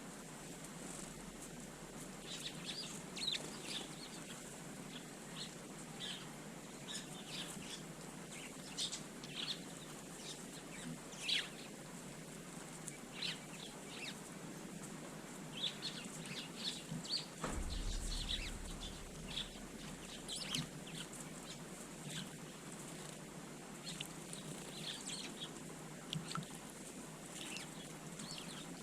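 Eurasian tree sparrows chirping, many short high calls scattered irregularly throughout, with a brief low rumble a little past the middle.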